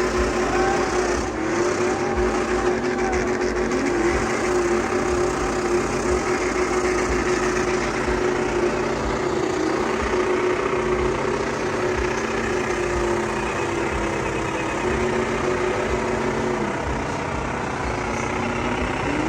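Vehicle engines running and idling steadily, with one held hum and a few short wavering whines over a dense, even din.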